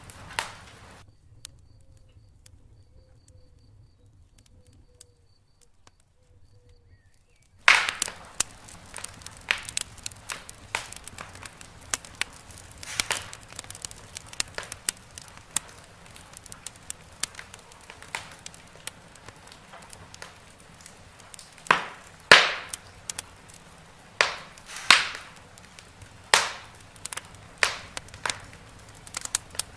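Wood fire in a fireplace crackling, with frequent sharp pops and several louder snaps. The first several seconds are nearly silent, then the crackling starts again with a loud pop.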